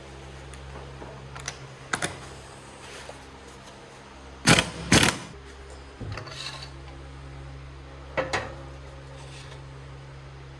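Scattered sharp clicks and clinks of tools and metal fork parts being handled, with the two loudest knocks close together about four and a half seconds in, over a steady low hum.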